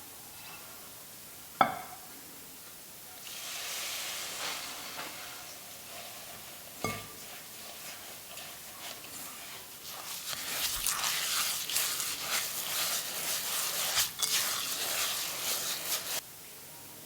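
Kitchen prep noises: a sharp clack, a soft rustle, a knock, then about six seconds of rapid scratchy stirring that stops suddenly.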